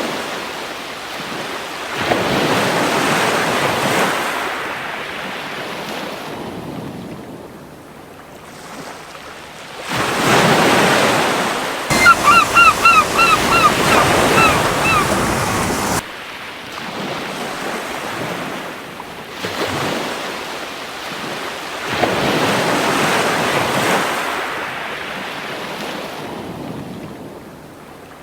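Gentle ocean waves washing onto a beach, swelling and fading in slow surges every few seconds. About twelve seconds in, a gull gives a quick series of about eight short calls.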